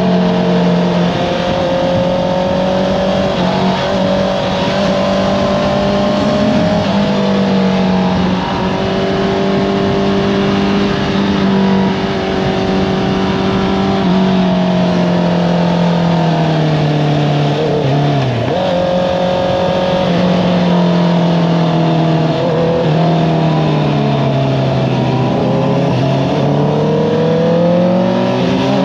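Honda CBR650R inline-four engine through an Akrapovič exhaust, running under way. It holds steady revs, drops in pitch twice as the throttle is rolled off with a brief dip and pick-up between, then rises again near the end as it accelerates.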